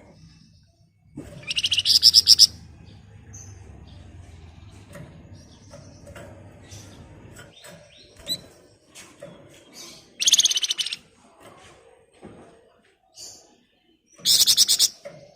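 Flamboyan songbird singing its rapid rattling 'ngebren' trill three times, each burst lasting about a second: near the start, about ten seconds in, and near the end. Softer short chirps come between the bursts.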